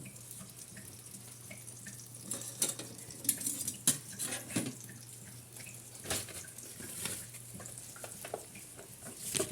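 Kitchen utensil clinking and scraping against a metal saucepan in scattered, irregular knocks, over a faint steady hiss and low hum.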